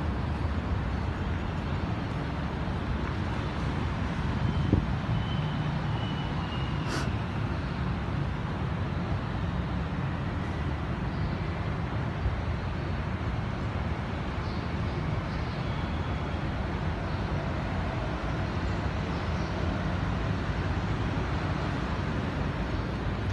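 Steady hum of road traffic, a continuous low rumble without breaks.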